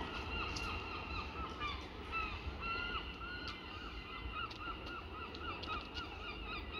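Birds calling, a string of short repeated cries: a few scattered calls at first, then a quick regular series of about three a second.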